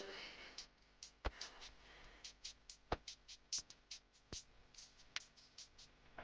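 Quiet background music with a drum-machine beat: a steady run of short hi-hat-like ticks and an occasional deep kick.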